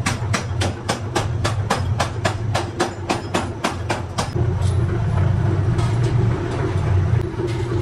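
Power hammer striking metal in a fast, even rhythm of about four blows a second, stopping about four seconds in, over a steady low machine hum.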